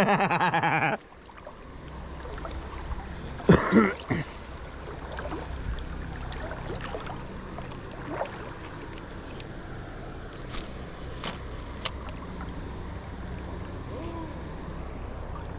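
Steady rush of river water and wind around a kayak, with a brief voice at the start and again about three and a half seconds in.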